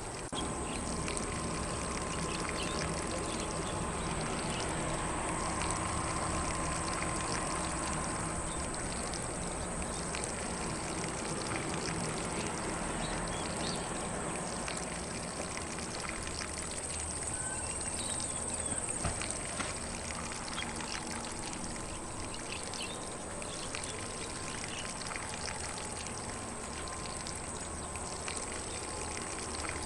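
Lawn sprinkler spraying water onto grass: a steady splashing hiss, with a few faint bird chirps now and then.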